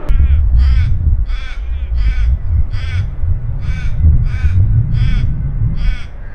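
A crow or raven cawing in a steady series of about eight harsh calls, roughly one every two-thirds of a second, over the low rumble of wind on the microphone.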